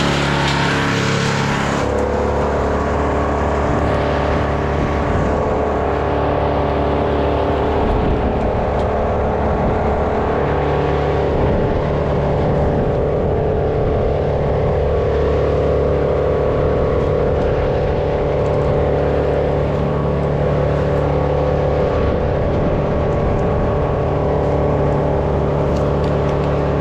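A small engine running steadily at a constant speed, its pitch shifting lower about two seconds in.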